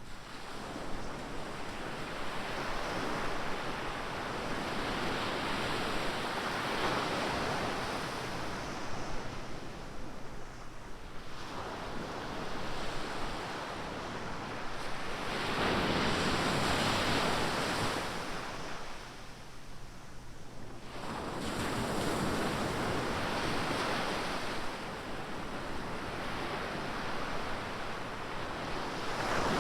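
Ocean surf: waves breaking and washing up the beach, a steady rush of water that swells and eases about every five to six seconds.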